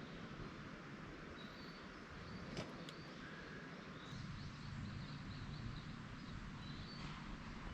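Faint outdoor ambience with scattered short, high bird chirps and a single sharp click about two and a half seconds in, over a low steady rumble.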